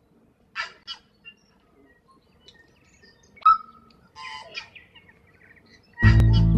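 Birds calling: two short harsh calls, a sharp call about three and a half seconds in, then a brief chattering run. Background music starts about six seconds in.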